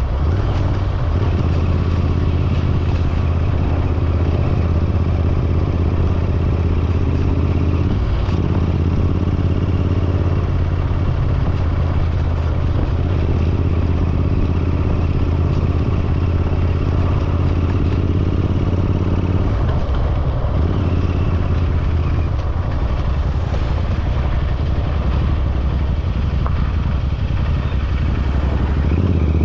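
Royal Enfield Continental GT650's 648 cc parallel-twin engine running steadily under way, its note dipping briefly about a third of the way in and again about two-thirds in.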